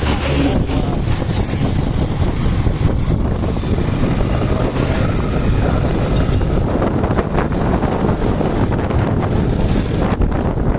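Steady, loud wind buffeting the microphone over the rumble of a moving vehicle.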